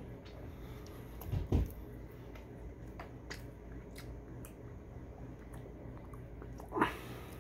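Close-up chewing of seasoned fries dipped in ketchup, with soft wet mouth clicks. There is a low thump about a second and a half in, and a short, louder mouth noise near the end.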